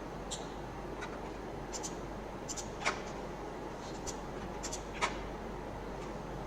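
Scattered computer mouse and keyboard clicks, about eight short taps, two of them louder near the middle and near the end, over a steady low hiss and mains hum.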